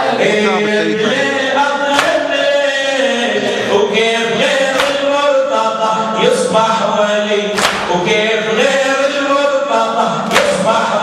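A group of men's voices chanting a Shia latmiya mourning lament in unison. Sharp rhythmic strikes of chest-beating (latm) mark the beat roughly every one and a half seconds.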